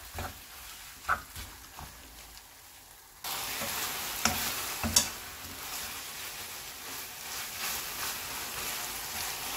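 Pork and kimchi sizzling in a frying pan while being stirred with a spatula, with a few knocks of the spatula against the pan. The sizzling jumps up sharply about three seconds in and stays steady.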